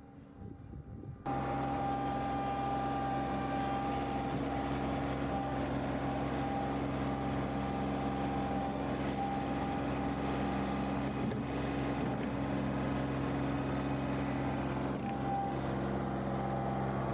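John Deere 2038R compact tractor's three-cylinder diesel engine running steadily at a constant speed. It comes in abruptly about a second in, after a quieter stretch of wind noise.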